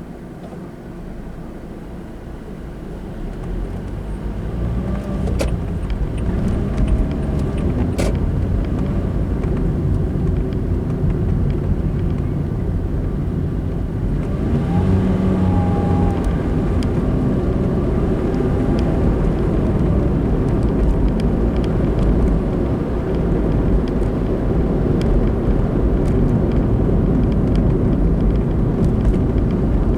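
Car road and engine noise from a driving car, rising over the first few seconds as the car gathers speed and then running steadily. There are two sharp clicks about five and eight seconds in.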